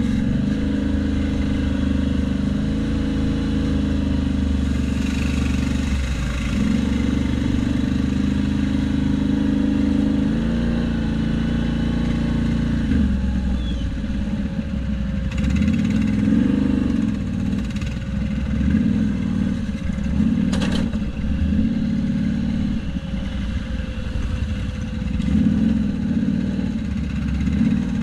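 A motor vehicle's engine running, its pitch shifting up and down. There is one sharp click about two-thirds of the way through.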